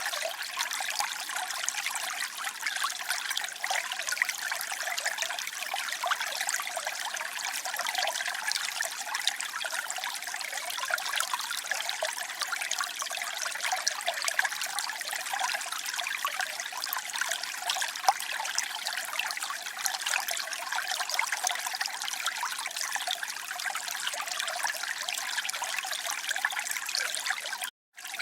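Water trickling and splashing steadily, a bright, fine-grained sound of many small splashes with no deep rumble. It breaks off for a split second near the end, then resumes.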